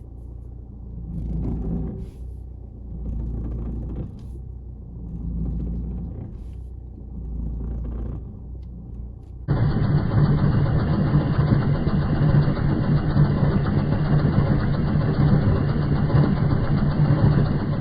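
An Audi A4 making its noise while turning: a low groaning rumble that swells and fades about every two seconds. About halfway through, a much louder steady rushing noise starts suddenly.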